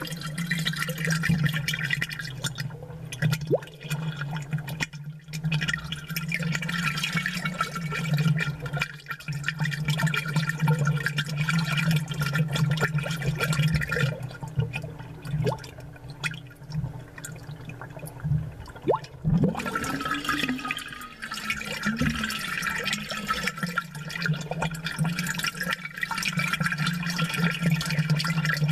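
Aquarium water bubbling and splashing from an air stone or aerator, picked up close and amplified, over a steady low hum from the pump.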